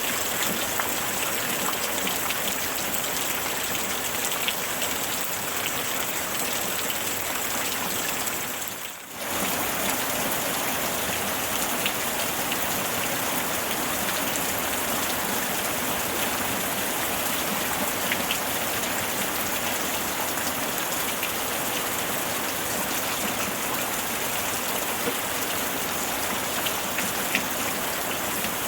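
Steady rainfall, an even hiss with scattered drop ticks. The sound briefly fades and comes back about nine seconds in.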